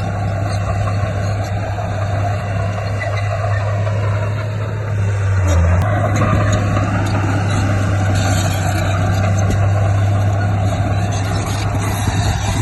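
Heavy diesel engine of earthmoving machinery running steadily under load, growing louder about five and a half seconds in.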